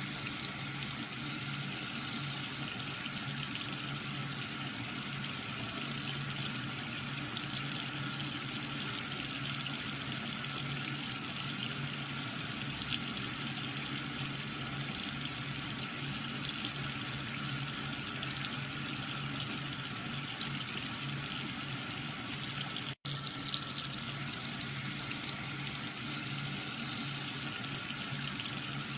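Water running and spraying steadily, with a steady hum underneath from a small water pump motor.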